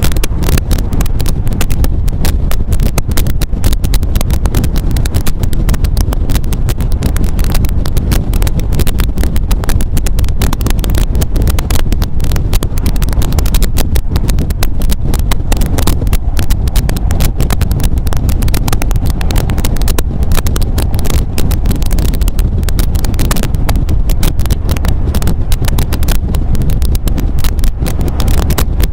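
MG MGA roadster driving on the road, its engine running steadily under way with heavy wind buffeting the microphone throughout.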